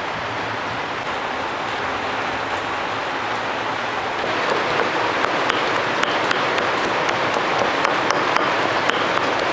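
Food frying in hot oil: a steady sizzle with many small crackles, getting louder about four and a half seconds in.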